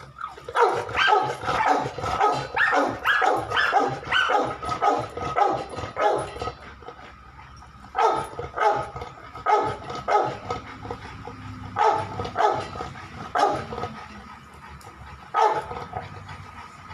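A dog barking over and over: a quick run of barks, about two a second, for the first several seconds, then shorter groups of barks with pauses between, and one last bark near the end.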